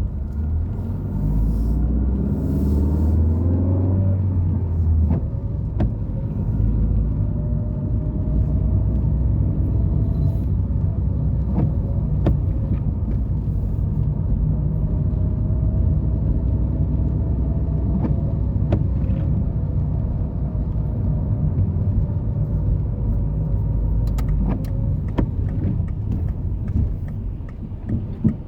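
Car driving, with the engine and a heavy road rumble. The engine climbs in pitch as it accelerates in the first few seconds and again twice later, with scattered light knocks.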